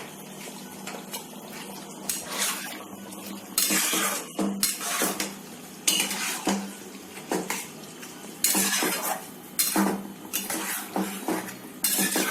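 A metal cooking utensil scraping and stirring chili chicken in its thickened gravy in a pan, in separate strokes every second or so, over a steady low hum.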